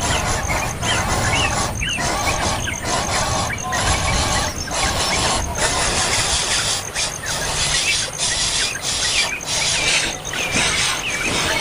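Songbirds calling: harsh, squealing cries in quick bursts broken by short gaps, with thin high chirps over them.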